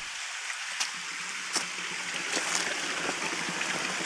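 Steady rush of flowing mountain stream water, with a few sharp clicks about one and one and a half seconds in.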